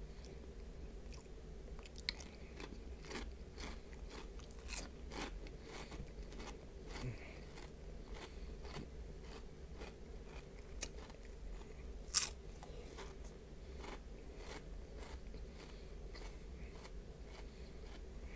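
A person chewing crunchy Flamin' Hot Cheetos close to the microphone: a steady run of small crunches, with one sharper, louder crunch about twelve seconds in.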